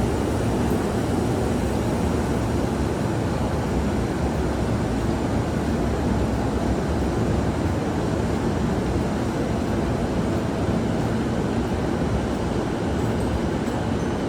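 Train running, a steady rumble with no breaks or distinct events.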